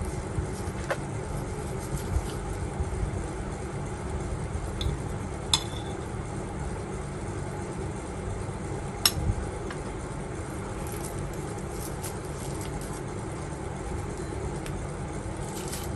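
A few sharp clinks of tableware, the loudest about five and a half and nine seconds in, over a steady low rumble.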